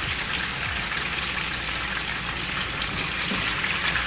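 Cubes of tofu sizzling steadily as they fry in hot cooking oil, with faint scattered crackles.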